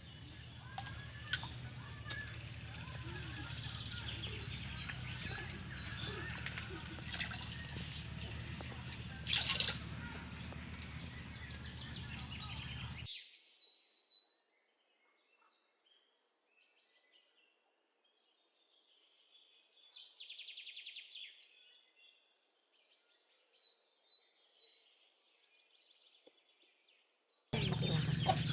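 Outdoor rural background noise with small birds chirping. About thirteen seconds in, the background hiss cuts out suddenly, leaving only faint birdsong, and it comes back just before the end.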